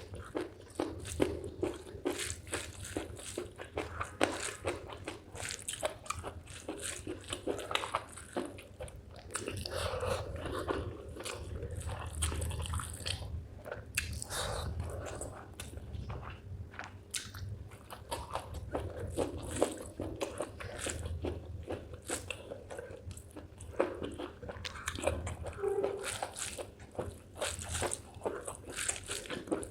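Close-miked chewing of spicy chicken gizzard with rice: irregular crunchy bites and wet mouth clicks, one after another.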